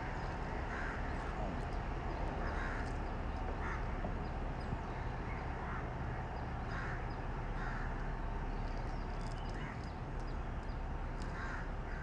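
Birds cawing in short calls at irregular intervals over a steady low background hum.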